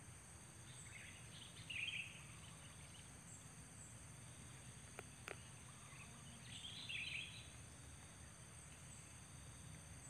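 Two short bursts of bird chirping, one about two seconds in and one around seven seconds, over a faint steady high insect buzz. Two sharp clicks about a third of a second apart come near the middle.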